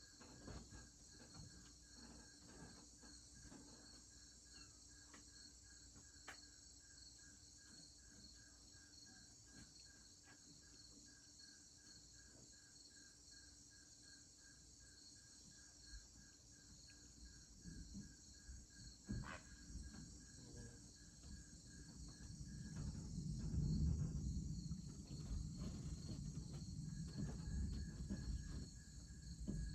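Evening insects chirping steadily in a fast pulsing chorus. About two-thirds of the way through, a low rolling rumble of distant thunder swells up, becomes the loudest sound, and lingers to the end.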